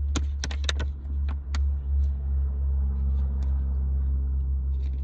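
A steady low rumble, with several sharp clicks in the first second and a half.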